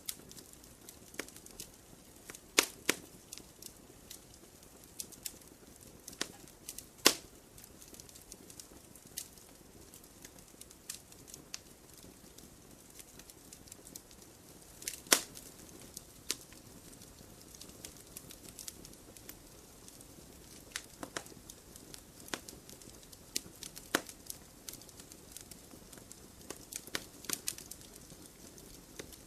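Wood campfire crackling: irregular sharp snaps and pops over a soft hiss, with a few louder pops, the loudest about two and a half, seven and fifteen seconds in.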